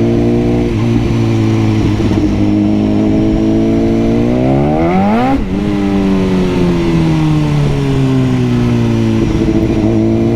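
BMW superbike engine running, with a rev that climbs sharply about halfway through and breaks off suddenly. The engine note then falls slowly and settles to a steady pitch near the end.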